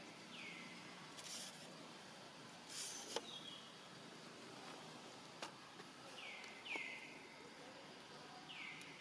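Faint outdoor ambience with a bird's short whistled call that slides downward, heard once at the start and three more times in the last third. Two brief hissing rustles come in the first few seconds, and there are a few soft clicks.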